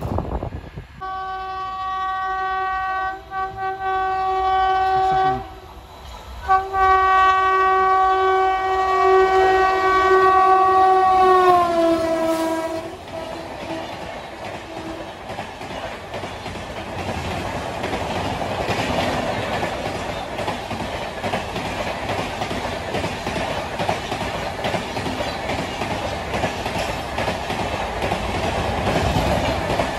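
A passing locomotive sounds its horn twice, a short blast and then a long one whose pitch drops as it goes by at speed. Then the LHB passenger coaches rush past with a steady rolling noise.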